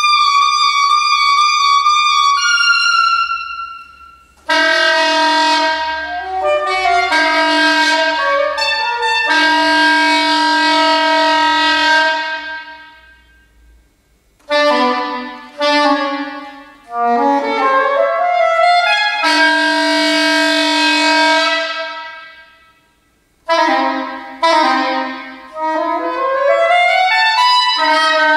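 Unaccompanied classical saxophone playing a slow piece in phrases of long held notes with a few quick runs. The sound dies away to near silence twice, once about halfway through and again near the end.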